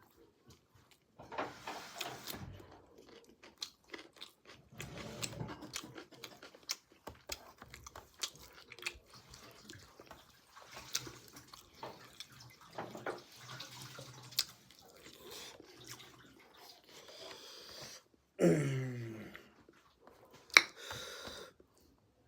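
A person chewing pork close to the microphone, with many small wet smacks and mouth clicks. About three-quarters of the way in, a short voice sound falls in pitch, followed by a sharp click, the loudest sound.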